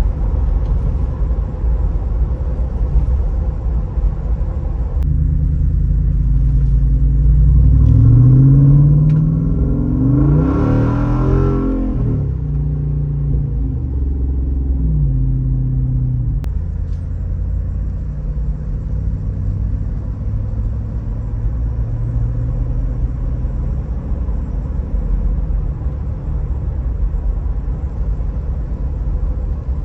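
Jeep Wrangler 392's 6.4-litre HEMI V8 through a Borla Type S exhaust, rumbling steadily, then rising in pitch as it accelerates, loudest around ten to twelve seconds in, before settling back to a steady rumble.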